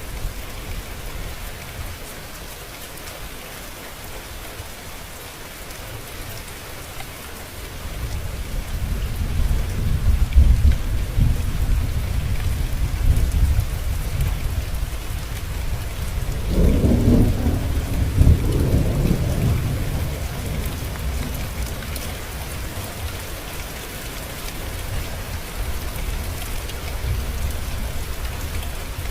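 Steady rain falling, with a long rolling rumble of thunder that builds about eight seconds in, swells twice and dies away over the next ten seconds or so.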